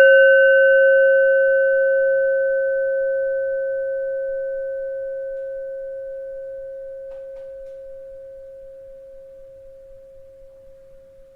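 A bell struck once, then ringing with one clear steady tone and a few fainter higher overtones, fading slowly and evenly for about eleven seconds until it cuts off near the end.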